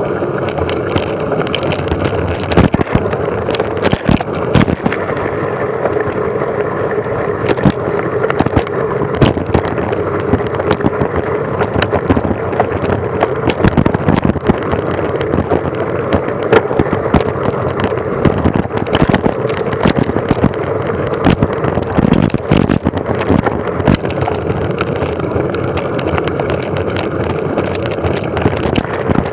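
Mountain bike ridden over a rough track: steady tyre rumble and wind on the microphone, with frequent rattling knocks from the bike.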